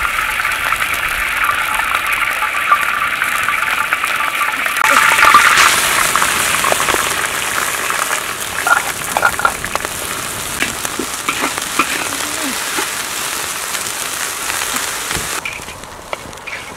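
Yellow spice paste sizzling as it fries in a hot steel wok over a wood fire. The sizzle grows louder about five seconds in, and a metal spatula scrapes and clicks against the wok.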